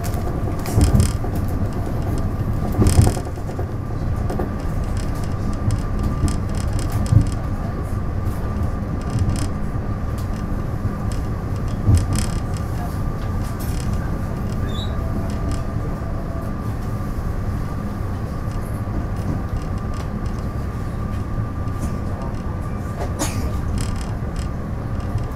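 Onboard running sound of a TRA DR3000 diesel multiple unit: a steady low rumble with a constant high hum, and a handful of sharp knocks from the wheels and track, mostly in the first half.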